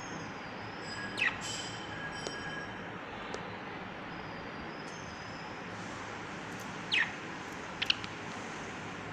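Pet parrot giving short, shrill calls that sweep downward in pitch: one about a second in and a quick cluster of three near the end, over a steady background hum.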